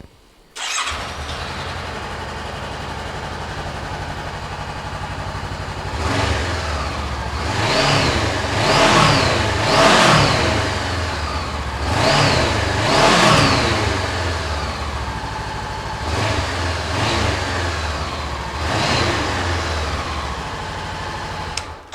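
Honda CB500 parallel-twin engine starting up about half a second in and settling to a steady idle, then revved in a series of short throttle blips, each rising and falling back to idle.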